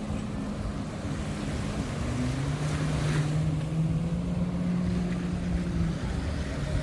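A motor engine running with a steady hum that drops in pitch about two seconds in, over the wash of surf and wind on the microphone.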